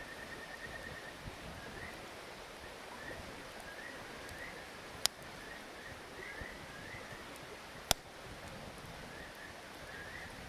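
Frogs calling in short repeated trills and chirps over a steady hiss, with two sharp pops from a burning wood fire about five and eight seconds in.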